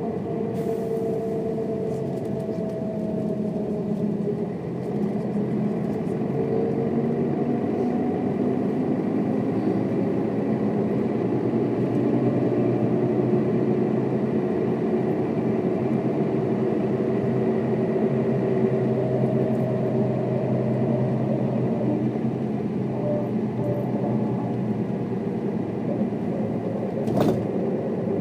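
1995 Mercedes-Benz O407 bus's six-cylinder diesel engine running while the bus drives, its pitch slowly rising and falling with engine speed. A short sharp click near the end.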